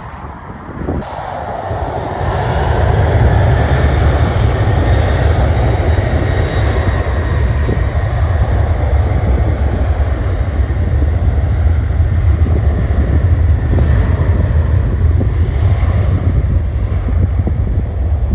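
Airliner engines at close range, swelling over the first few seconds and then holding loud and steady, with wind buffeting the microphone.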